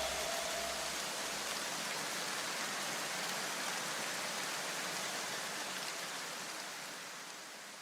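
Steady rain-like hiss that fades out over the last couple of seconds.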